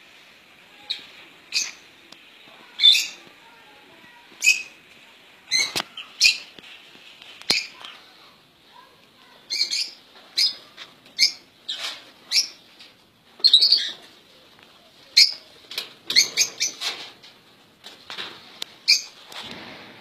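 Caged birds chirping: a string of short, sharp calls, bunched several to a second in places, over a faint steady twittering.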